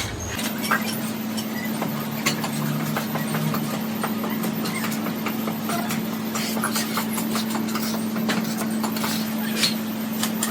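A machine running with a steady hum, with scattered irregular clicks and light knocks over it.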